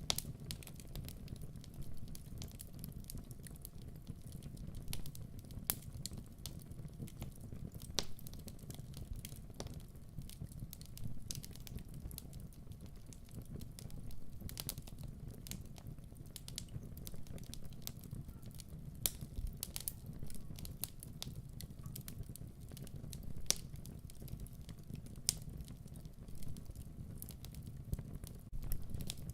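Wood fire burning in a fireplace: a steady low rush of flames with irregular sharp crackles and pops throughout.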